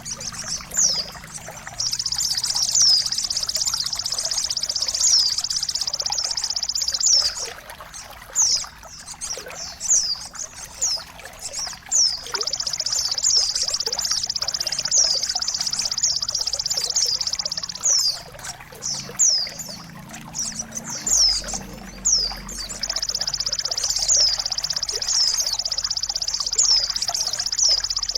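Birdsong over a steady trickle of running water: three long, high, buzzing trills of about five seconds each, with short falling whistled notes between them.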